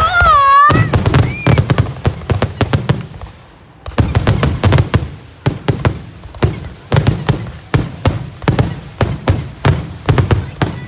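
Aerial fireworks going off in a rapid barrage of sharp cracks and bangs, opening with a wavering whistle and easing briefly about three seconds in before the cracks come thick and fast again.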